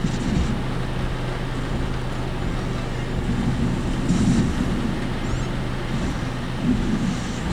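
Steady in-cabin road and engine noise of a work vehicle on the move: a low drone with the body rattling, swelling louder a few times, most of all about four seconds in.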